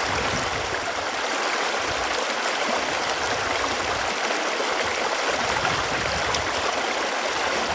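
Running water flowing steadily, an even, continuous rushing.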